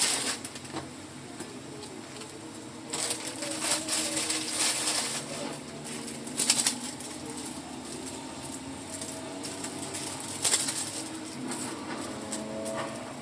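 Close-miked eating of Jjapaghetti instant black-bean noodles: wet slurping and chewing, with sharp clinks and clicks from time to time, loudest about three, six and ten seconds in.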